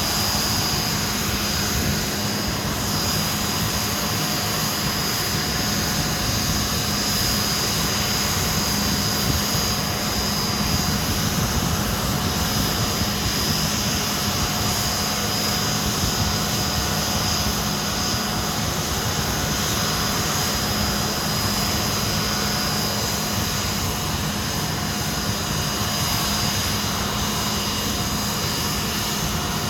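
Hawker Siddeley Nimrod's Rolls-Royce Spey turbofan engines running steadily, a constant high whine over a low drone.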